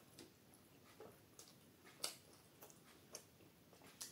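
Close-miked eating sounds: wet mouth clicks and lip smacks from chewing naan and butter paneer, about seven sharp ticks at irregular spacing, the loudest about two seconds in.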